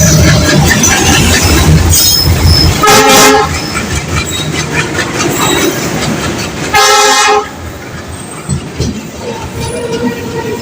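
Indian Railways express train rolling into a station: a loud low rumble of the coaches on the rails that fades after about three seconds, with two short train-horn toots, one about three seconds in and one about seven seconds in.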